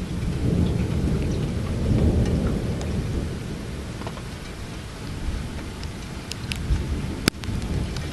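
Thunder rumbling low through steady rain, swelling in the first few seconds and then easing off, with scattered drop ticks. A single sharp click comes about seven seconds in.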